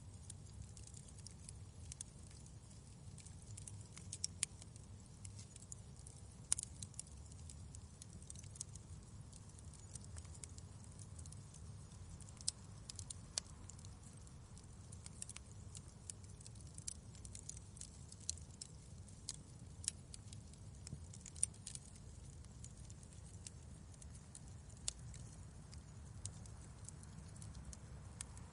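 Wood fire crackling in a fireplace: irregular sharp crackles and snaps, a few louder pops, over a steady low rumble.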